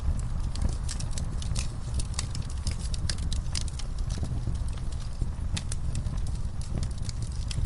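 Campfire crackling: frequent irregular sharp pops and snaps of burning wood over a steady low rumble of the flames.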